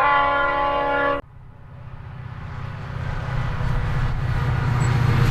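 Diesel locomotive horn sounding a chord for about a second and cutting off suddenly. Then the low rumble of the lead VL class locomotives grows steadily louder as the train approaches.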